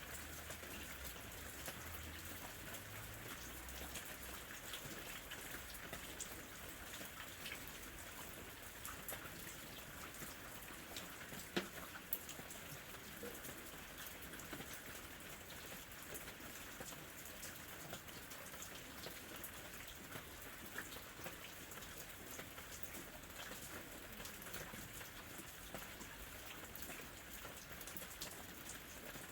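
Gentle summer rain falling steadily: an even hiss flecked with many small drop ticks, one sharper tick about twelve seconds in.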